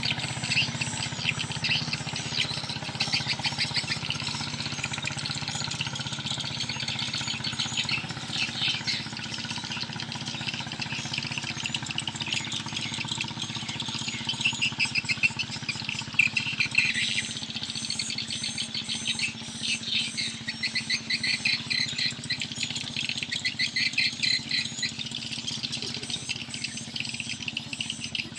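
Birds chirping and calling in rapid, dense runs, with a low steady hum underneath for roughly the first two-thirds that then fades.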